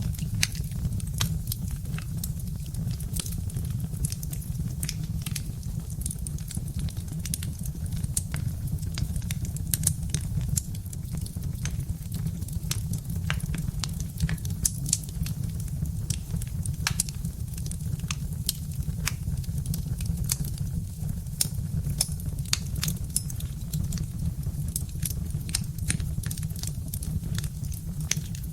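Birch-wood fire crackling, with frequent irregular sharp pops and snaps over a steady low rumble.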